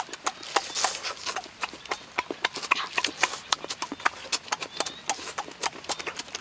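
Close-up eating sounds: raw lettuce leaves and a peeled boiled egg being bitten and chewed, a fast irregular run of crisp crunches and mouth clicks.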